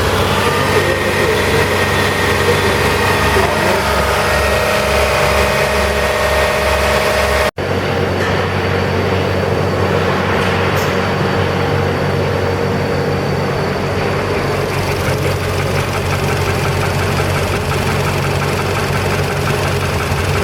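Volkswagen 1.6 CFN four-cylinder petrol engine idling steadily with the knocking that is being recorded. The sound drops out briefly about seven and a half seconds in, where two recordings are joined.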